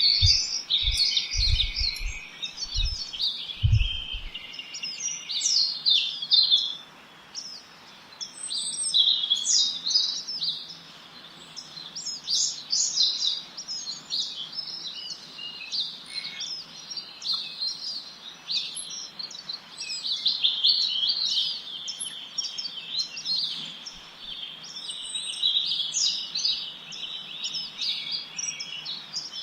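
Songbirds chirping and twittering in a dense chorus of quick, high notes and short trills from several birds at once. A few low thumps sound in the first four seconds.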